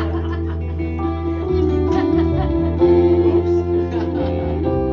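Electric guitar music played through distortion, with long held notes over a steady low bass; about three seconds in, one high note wavers.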